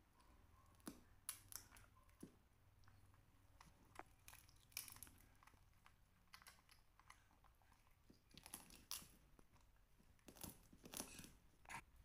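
Faint crunching and chewing of crispy puffed-corn snack bars being bitten and eaten by a young monkey and a toddler: irregular sharp crunches that come in small clusters.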